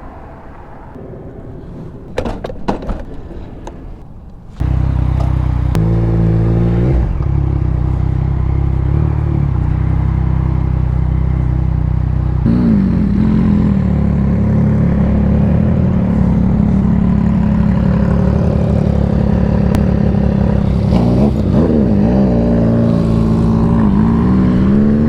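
A few sharp clicks and some clatter, then about four and a half seconds in a motorcycle engine comes in suddenly and loud. It pulls away and runs on, its pitch climbing and dropping several times as the rider accelerates and shifts gears.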